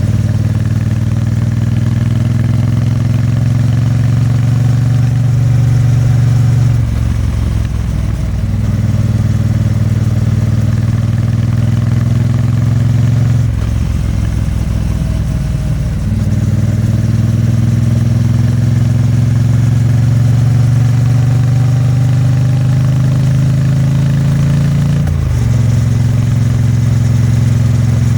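Triumph Bonneville T100's 900 cc vertical-twin engine and exhaust under way. The engine note climbs slowly and steadily, then drops away and picks up again three times: about seven seconds in, for a couple of seconds around the middle, and near the end.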